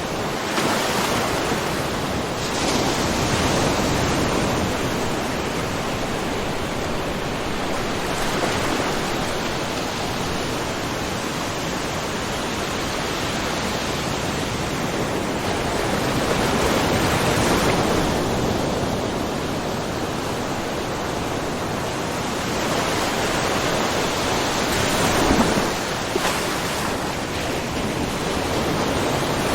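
Small ocean waves splashing and washing against a rocky shore, a continuous rushing wash that swells and eases every few seconds.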